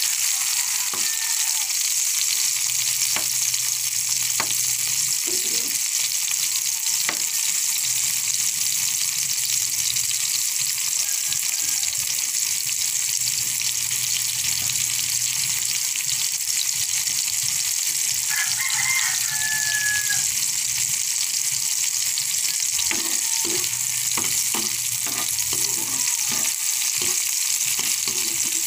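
Chopped tomatoes and garlic sautéing in oil in a nonstick frying pan: a steady high sizzle, with a spatula scraping and tapping the pan now and then, more often near the end.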